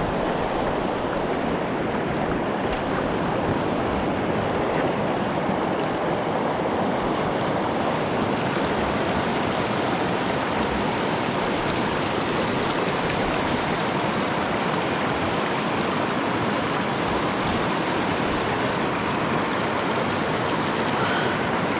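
Mountain stream water rushing steadily, an even, unbroken wash.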